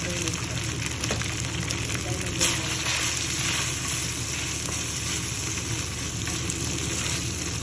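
Diced meat sizzling in hot oil in a nonstick wok while a wooden spatula stirs and scrapes it around. There is one sharper knock about two and a half seconds in.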